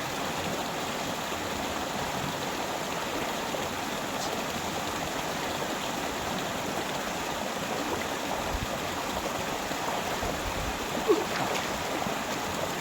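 Steady rush of flowing river water, with one brief sharp sound about eleven seconds in.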